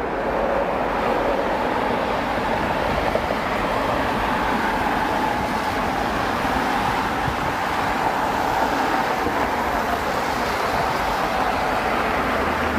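Jet airliner's engines at takeoff power: a loud, steady rushing noise with a humming tone that wavers slightly in pitch.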